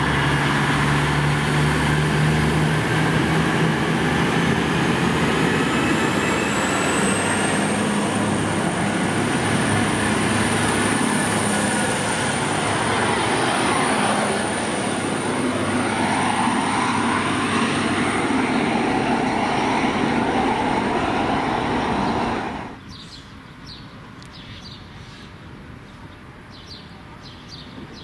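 V/Line VLocity diesel multiple unit passing along a station platform: engines running and wheels rumbling on the rails, with a thin high whine that rises a few seconds in and then holds steady. Near the end the train sound cuts off abruptly, leaving a much quieter background with short high chirps.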